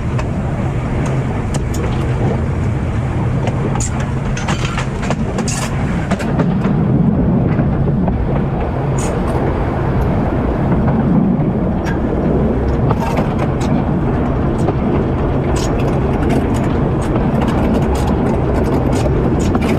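Heritage train running along the line: a steady low drone with an even rushing noise, and scattered sharp clicks throughout.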